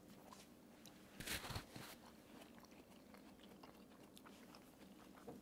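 Near silence with a brief crunch a little over a second in and faint chewing: someone biting into and eating flaky puff-pastry-topped apple pie.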